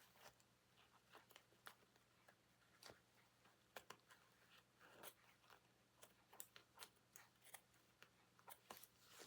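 Faint, irregular small snaps and clicks of stitching threads giving way as fabric is pulled off a hessian cushion.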